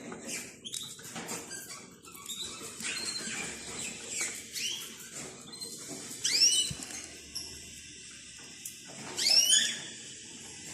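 Budgerigars chirping and chattering amid scattered clicks, with two louder bursts of chirps, one a little past the middle and one near the end.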